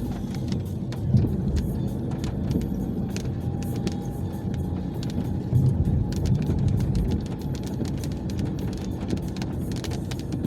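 A car driving in heavy rain, heard from inside: a steady rumble of road and engine with many sharp taps of raindrops on the body and glass.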